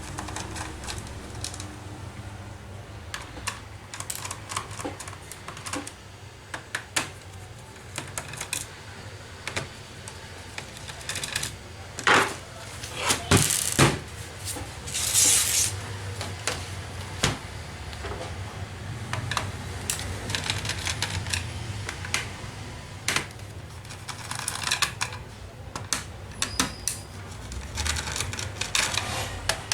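Screwdriver clicking and ticking irregularly as screws are backed out of the plastic bottom case of a Dell Inspiron 15 3000 laptop, with a few louder clacks around the middle.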